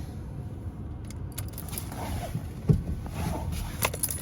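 Light jingling handling noises with two sharp knocks, one past the middle and one near the end, over a steady low rumble.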